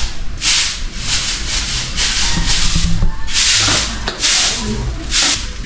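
Repeated scratchy brushing strokes on a hard surface, about two a second.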